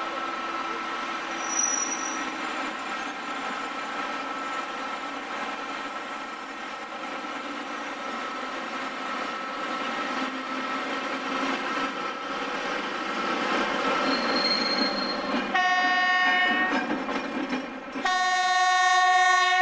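A railway locomotive running with a steady mechanical rolling noise, then sounding two blasts of its horn near the end, the first about a second long and the second a little longer.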